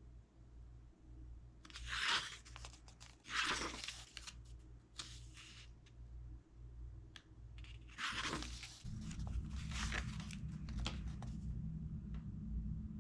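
Paper rustling in several short bursts, like the pages of a book being handled and turned. About nine seconds in, a steady low hum starts underneath.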